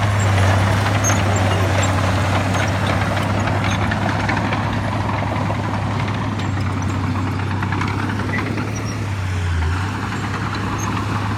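Heavy diesel earth-moving machinery running steadily, a deep, constant engine hum under a wash of mechanical noise, easing slightly about ten seconds in.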